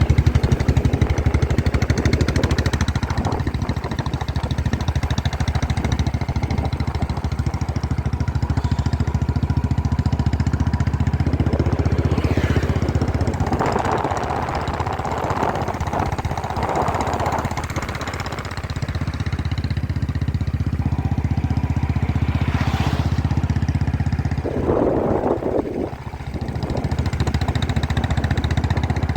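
Motorcycle engine running steadily at low revs, with a few brief louder sounds over it around the middle and again near the end.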